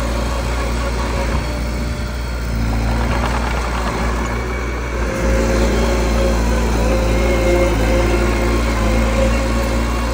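Small bulldozer's diesel engine running steadily under work, growing a little louder about halfway through.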